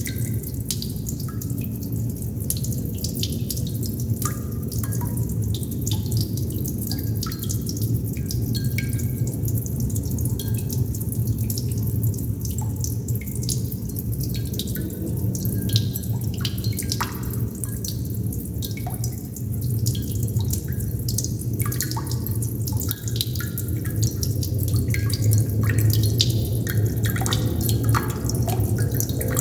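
Water droplets dripping, many drops falling at irregular intervals, with a steady low rumble underneath.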